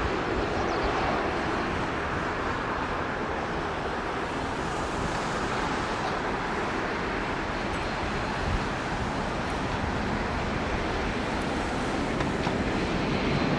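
Jet airliner engines heard from a distance as a steady, even roar, mixed with wind on the microphone. The roar grows a little louder near the end.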